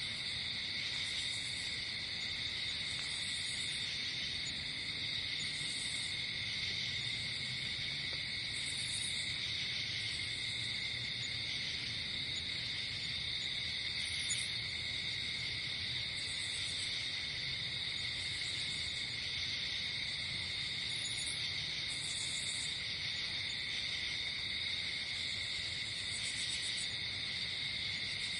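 Night-time insect chorus: a steady, unbroken high trilling, with short, higher buzzing calls from another insect repeating every one to three seconds.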